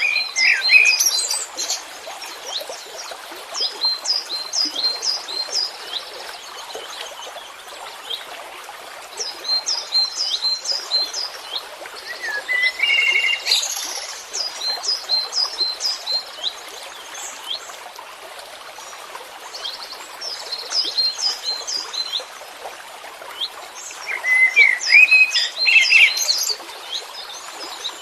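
Songbird singing: about six bursts of rapid, high, downward-slurred chirps separated by short pauses, with a few lower whistled notes mixed into some bursts, over a steady background hiss.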